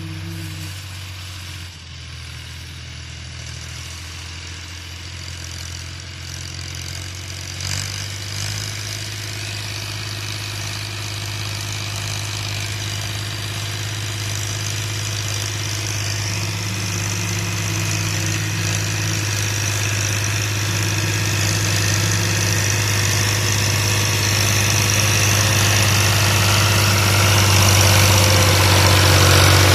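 New Holland 480 tractor's diesel engine running steadily at idle, growing gradually louder throughout, with a brief knock about eight seconds in.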